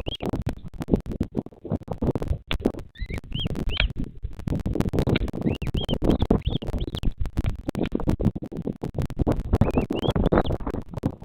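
Dense crackling and rustling on the nest-camera microphone, with runs of short, high, rising-and-falling bird chirps a few times.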